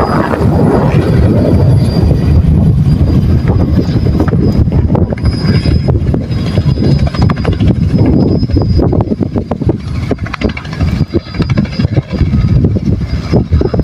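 Helicopter running loud, a dense low rotor noise with a steady high whine over it, and gusts buffeting the microphone.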